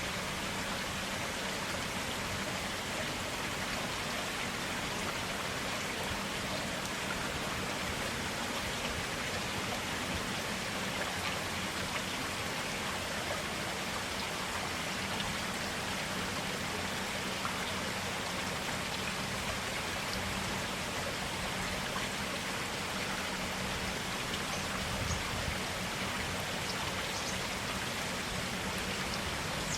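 Stream water flowing steadily, an even, continuous rush of water.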